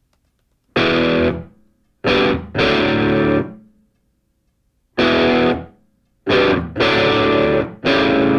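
Background music: distorted electric guitar chords struck in separate stabs, each ringing for about half a second to a second, with short silences between.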